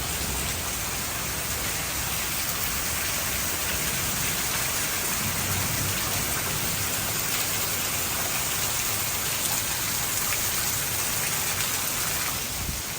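Torrential rain pouring down steadily in a heavy downpour, with wind adding a low, uneven rumble.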